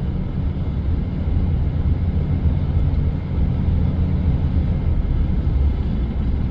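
Steady low drone of a coach bus's engine and tyres on the road, heard from inside the moving cabin.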